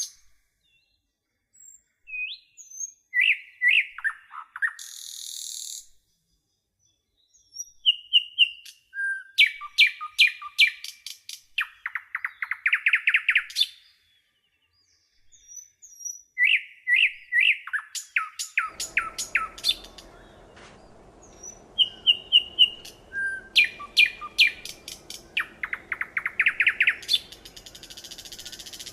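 A songbird singing: repeated phrases of sharp chirps, each ending in a fast trill, separated by pauses of complete silence. From about two-thirds of the way through, a faint steady background hiss sits under the song.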